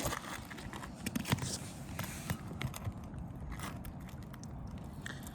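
Scattered clicks, crackles and scrapes from asphalt roof shingles being handled and pried at, over a steady low rumble.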